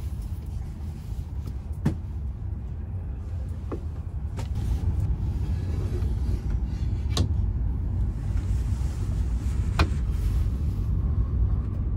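Steady low rumble of a Shinkansen running at speed, heard inside the passenger cabin, slowly growing a little louder. Over it, a few sharp clicks of a seat's plastic tray table being unfolded from the armrest and laid flat.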